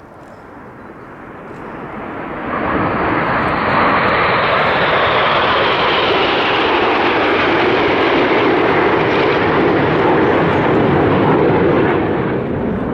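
Red Arrows' BAE Hawk jets flying past. Their jet noise swells over about three seconds into a loud, steady rush that holds, its pitch slowly falling.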